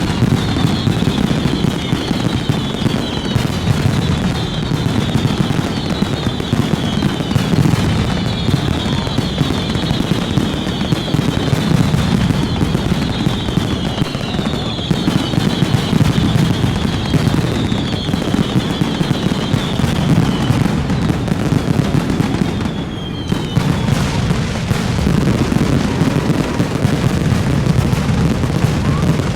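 Fireworks display: rapid, continuous bangs and crackling over a deep rumble. A high whistle falling in pitch repeats about once a second and stops shortly after the midpoint.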